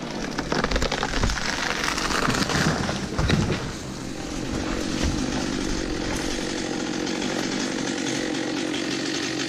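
Chainsaw running and cutting wood, uneven for the first few seconds, then a steady drone from about four seconds in.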